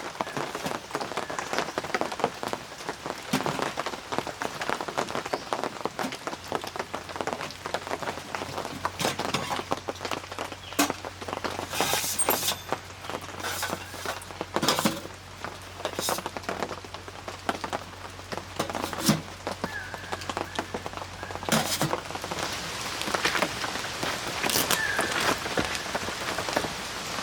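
Rain falling on a surface: a dense spatter of small drops, with louder single drip strikes standing out every few seconds.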